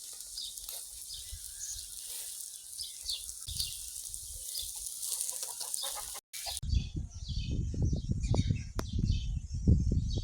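Small birds chirping repeatedly in short, high calls. After a brief dropout about six seconds in, a loud, uneven low rumble joins them.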